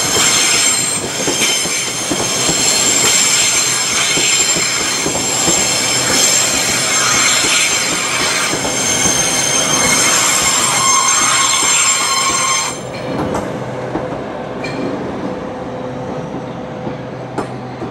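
Southeastern Class 395 high-speed electric train running past the platform: wheels rumbling and clattering on the rails under several steady high whining tones. The sound drops away about three-quarters of the way through as the last carriage passes.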